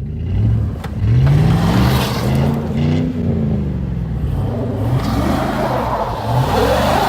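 Pickup truck engine revving hard and repeatedly, rising and falling in pitch, while straining to tow a stuck truck out of a ditch, with a rushing hiss over it that grows near the end.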